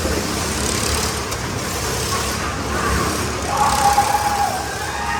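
Motorcycle engine running with steady wind-like noise; about three and a half seconds in, a higher-pitched rev holds for a second and then drops away.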